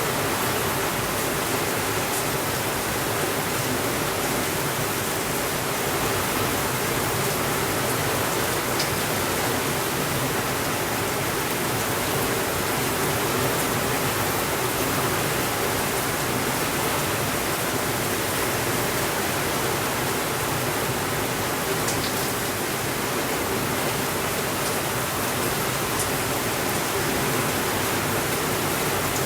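Steady, even rainfall making a constant rushing hiss, with a few faint clicks here and there.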